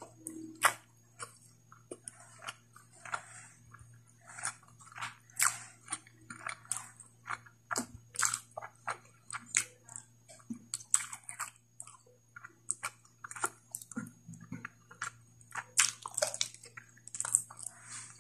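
Close-miked eating of spicy pork curry and rice: wet chewing, lip smacks and mouth clicks, several a second at an irregular pace, over a faint steady low hum.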